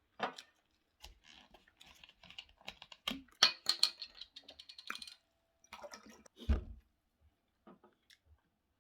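Eating sounds close to the microphone: a run of quick, sharp clicks and taps for several seconds, then a dull thump about six and a half seconds in.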